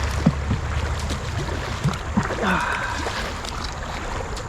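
Kayak paddle strokes splashing while the strong river current rushes past the hull, with scattered short knocks.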